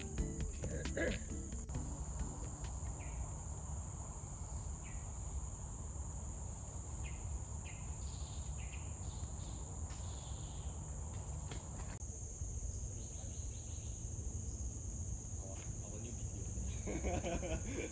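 Steady high-pitched insect chorus over a low rumble, with a few short calls scattered through it.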